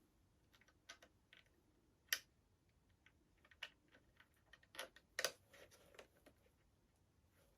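Irregular light clicks and taps of airsoft gun parts being handled, with the sharpest clicks about two seconds in and around five seconds in.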